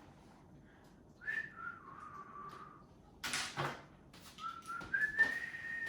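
A person whistling: a note that slides downward, then a brief clatter about three seconds in, then a note that slides upward.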